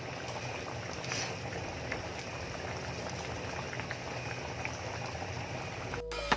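A pot of stew simmering, a steady bubbling with small scattered pops, cutting off about six seconds in.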